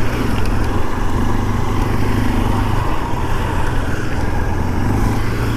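Motorcycle engine running steadily while riding, with a constant low hum and road noise.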